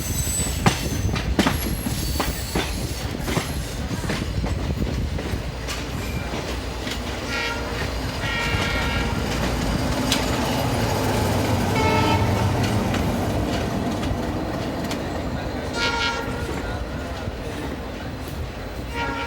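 Konark Express passenger train pulling out of the station, its wheels clattering over rail joints with a steady rumble underneath. Several short high-pitched calls sound over it at intervals.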